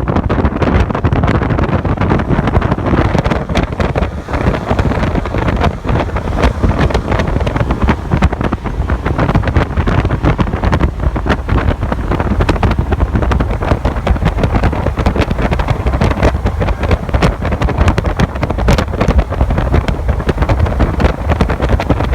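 Loud, gusty wind buffeting the microphone, a rough rumble with irregular gusts throughout.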